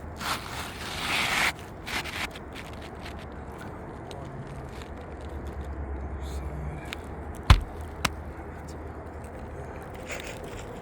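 Scraping and rustling of an asphalt shingle being worked into place on a roof, then two sharp knocks about half a second apart.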